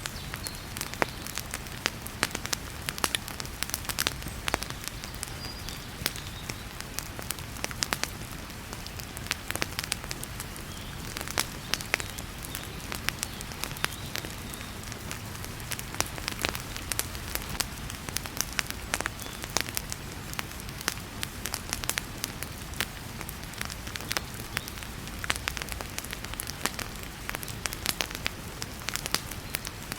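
Wood fire crackling in a fireplace, with frequent sharp, irregular pops over the steady hiss of heavy rain.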